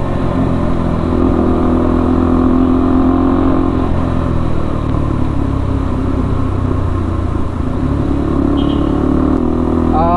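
KTM RC 390's single-cylinder engine running on the move through an aftermarket IXIL exhaust with the catalytic converter deleted. The note is steady and shifts slightly about a second in and again near the end.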